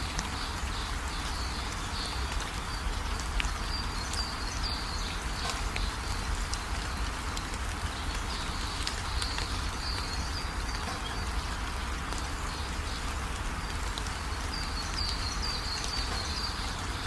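Birds chirping in short repeated bursts over a steady hiss and low rumble.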